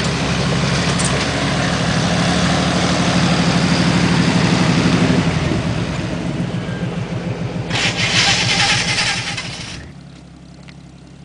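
Chevy Blazer 4x4's engine running hard under load, building for about five seconds and then easing off. Near the end a loud rushing hiss lasts about two seconds, then cuts off suddenly, and the engine drops to a low, quiet run.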